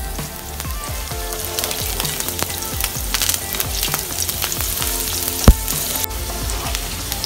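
Sliced green chillies sizzling and spitting in hot oil in a frying pan, stirred with a wooden spoon, with one sharp knock about five and a half seconds in.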